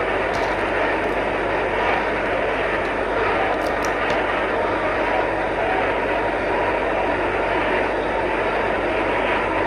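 A large congregation praying aloud all at once, many voices blending into one steady, unbroken din.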